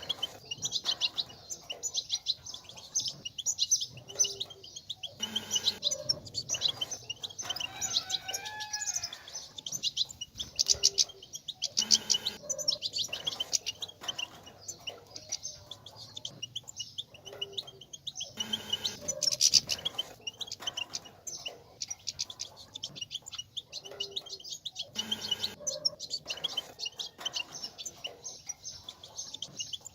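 European goldfinches twittering: a fast, unbroken chatter of short high chirps and trills.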